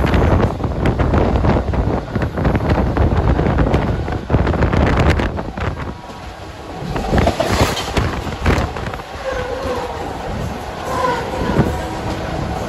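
Mumbai local electric suburban train running on the rails, a dense rumble with wind buffeting the microphone. It eases and gets quieter about halfway through, and some wavering higher-pitched sounds come over it.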